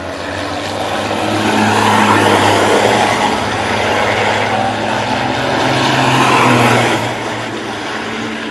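Motor vehicle engines running past, the sound swelling to two loud peaks, about two seconds in and again near six and a half seconds, then fading.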